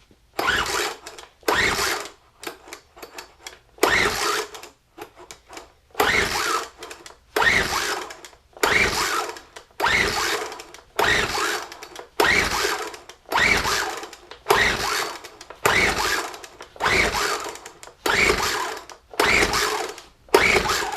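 Poulan Pro SM400 two-stroke leaf blower being pull-started again and again, roughly one pull a second, the recoil starter turning the engine over without it firing: it doesn't sound like she's even trying, despite the new piston ring and full choke.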